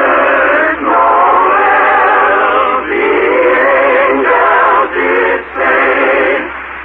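Voices singing a Christmas carol with long held notes, heard through an old narrow-band radio transcription.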